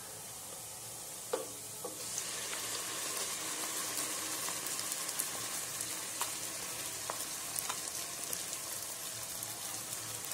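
Onions and ground masala paste sizzling in hot oil in a pot while a wooden spoon stirs and scrapes through them. A couple of light knocks come just under two seconds in, and the sizzle grows louder from about two seconds in.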